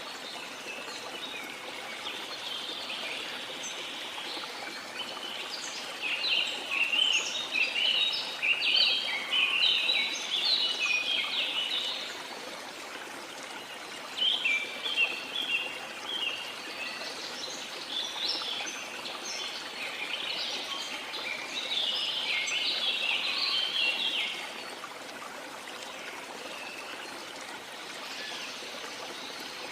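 Waterfall water running steadily, with tropical forest birds singing in bursts of quick chirping phrases over it; the birds fall mostly quiet in the last few seconds.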